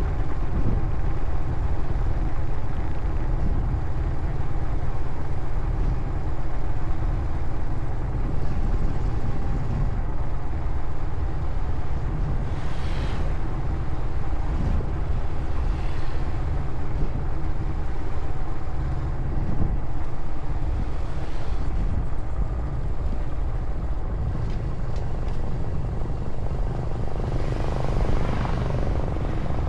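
Motorcycle running steadily on the road, with the rush of other vehicles passing briefly about halfway through and again, loudest, near the end.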